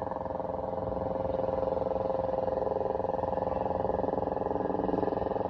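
An engine running steadily, a low pulsing hum that holds the same pitch throughout.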